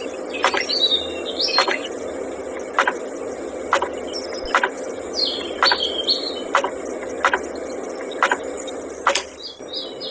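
Birds chirping in short calls, over a steady hum and a sharp click that repeats about every three-quarters of a second.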